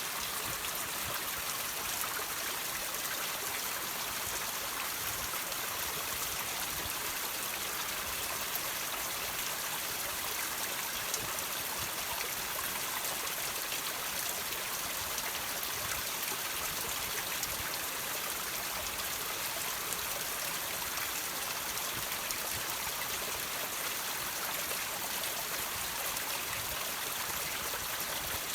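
Water dripping and trickling off rocks: a steady splashing hiss full of small drips.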